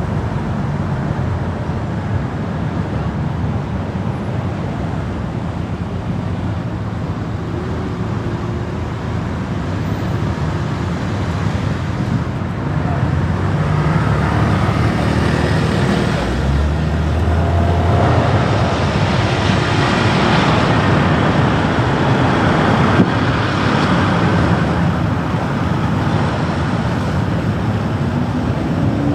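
Car driving along city streets: steady road and traffic noise of tyres and engines, growing louder about halfway through.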